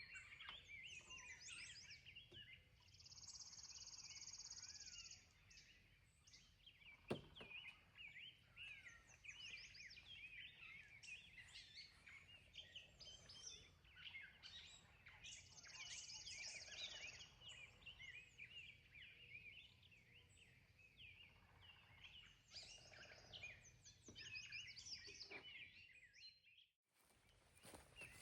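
Faint birdsong: several birds chirping and warbling over quiet outdoor background noise. A high steady buzz comes in twice for about two seconds each, and there is one sharp knock about seven seconds in.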